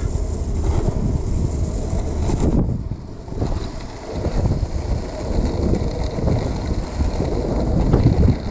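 Wind buffeting the microphone: a loud, low rumble that rises and falls in gusts, with the higher hiss dropping away sharply a little over two seconds in.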